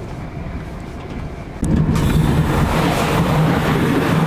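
Running noise of a moving passenger train heard from inside a carriage: a steady low rumble that, about a second and a half in, suddenly becomes much louder, with a steady low hum and more hiss, on passing from the seating area into the vestibule by the doors.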